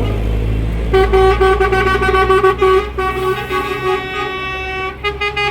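A vehicle horn tooting repeatedly, in short and longer blasts on one steady pitch, starting about a second in, over the low rumble of engines running.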